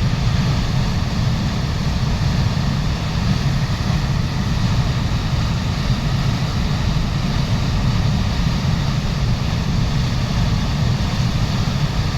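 Waterfall: a steady, deep rush of falling water that does not change.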